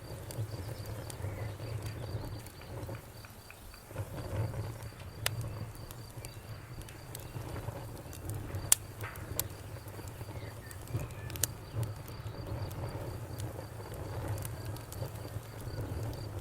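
Campfire burning with a low, flickering rumble and scattered sharp crackling pops, the loudest about halfway through. Under it, an insect chirps steadily in a fast, even pulse.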